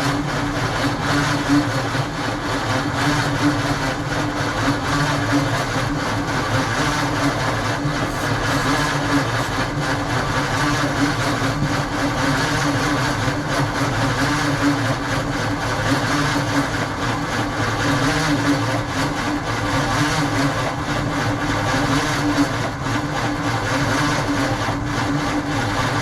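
1948 Ford F5 truck engine turning over on its starter motor, cranking steadily without firing. The engine won't catch, a fault suspected to lie in the timing.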